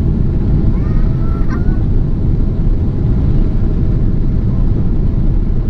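Steady, loud low rumble of a Boeing 777-200 airliner's jet engines and rushing air, heard inside the passenger cabin shortly after takeoff. It has a faint steady hum running through it.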